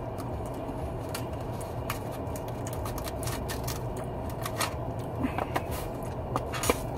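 Close-up eating sounds: chewing a crisp fried pie, with scattered mouth clicks and crackles of crust that come thicker and louder toward the end. A steady low hum of the car cabin runs underneath.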